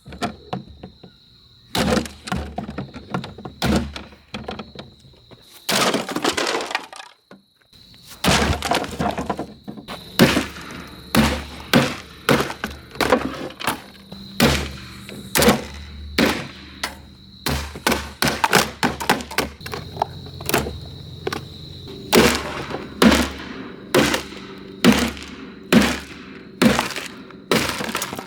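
Windmere table fan being smashed apart: a long series of hard blows and breaking, sparse at first and then about one a second after a short pause.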